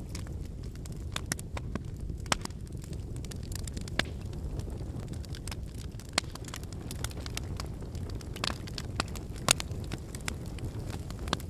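Wood campfire burning: a steady low rumble of flame with frequent sharp crackles and pops from the burning logs, a few pops louder than the rest.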